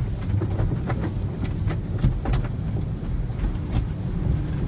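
Automatic car wash at work, heard from inside a closed car: a steady low rumble with scattered short knocks and splashes against the car's body.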